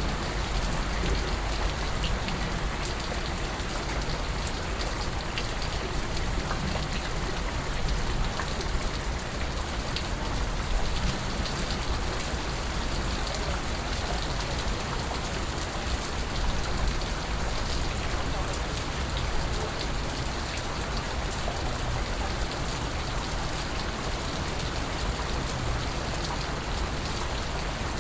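Steady rain with individual water drips and drops pattering among it, even in level throughout.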